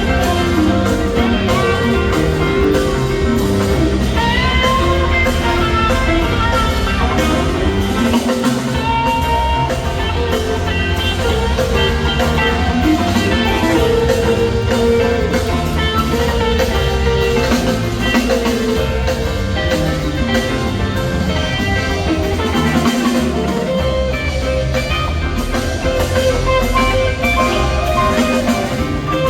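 Rock band playing live in an instrumental jam: an electric guitar lead with bent notes over bass and drum kit.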